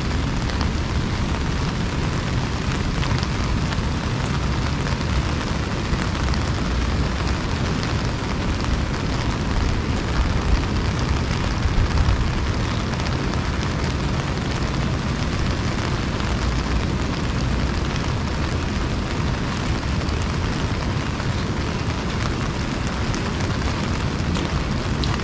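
Heavy rain pattering densely on an umbrella over a steady low rumble.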